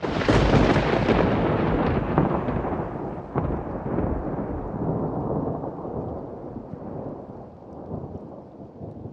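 A thunderclap: a sudden crack out of silence that rolls into a long rumble, with a few more sharp cracks about two, three and four seconds in, fading slowly.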